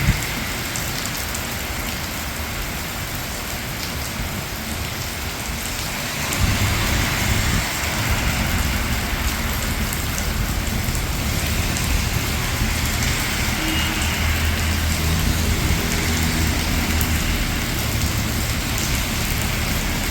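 Steady rain falling on a city street, an even hiss throughout. About six seconds in, a low rumble of motor traffic joins it and carries on.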